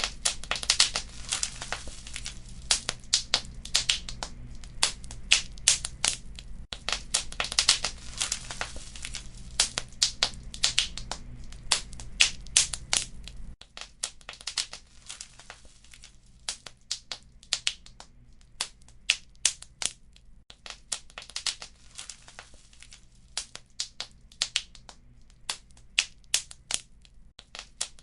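Wood fire crackling in a fireplace, with irregular sharp pops and snaps over a low rumble. About halfway through, the rumble drops away and the pops become sparser and quieter.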